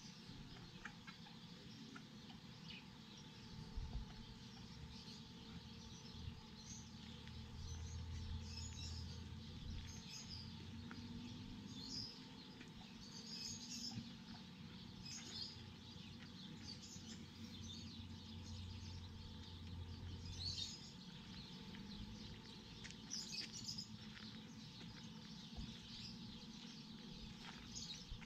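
Faint, short, high bird chirps repeating on and off. A low steady hum runs under them through the middle.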